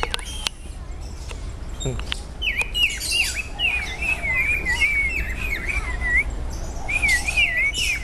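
Songbird singing a fast, continuous run of swooping whistled notes, beginning about two and a half seconds in, with a short break near the end. A few sharp clicks come before the song.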